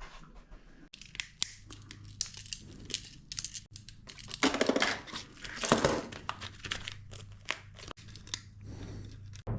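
Rustling and crinkling with scattered small clicks and taps, as of objects being handled and moved about, over a low steady hum.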